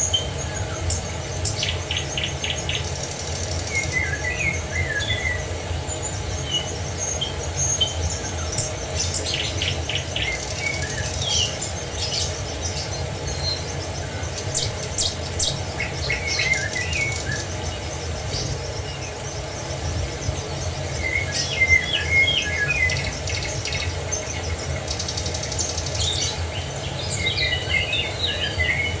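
Several songbirds chirping and singing, with short whistled notes and quick trills of rapidly repeated notes coming every few seconds. Underneath is a steady low rumble.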